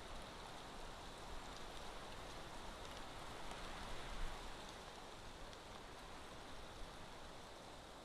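Steady, faint outdoor hiss picked up by a nest-camera microphone, with a few faint ticks.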